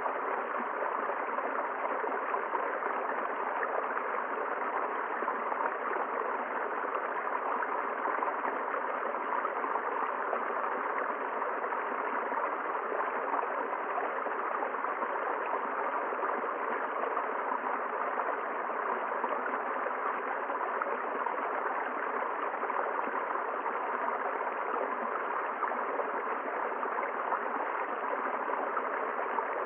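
River water flowing: a steady, even rush of running water with no breaks or separate events.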